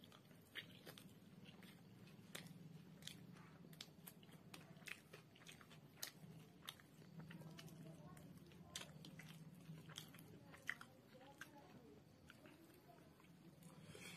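Faint close-up eating sounds: chewing with scattered sharp crunches and mouth clicks as noodles and fried pieces are eaten by hand. A low steady hum sits underneath.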